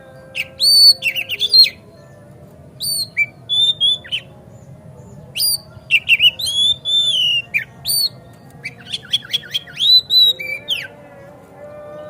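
Oriental magpie-robin (kacer) singing loud, varied whistled phrases in four bursts, with sharp rising and falling notes. A faint steady hum runs underneath.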